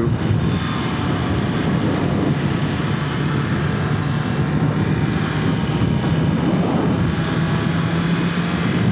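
BMW S1000RR's inline-four engine running at a steady cruise, heard through a helmet mic with wind rush over it. The engine note holds one even pitch, with no revving or gear changes.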